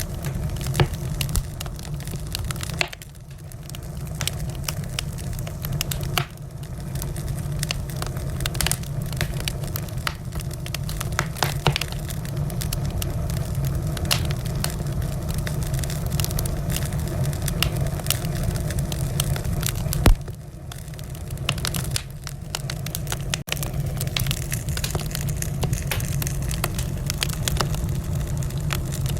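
Wood fire burning in a fireplace: a steady low rumble with frequent sharp crackles and pops, and one loud pop about twenty seconds in.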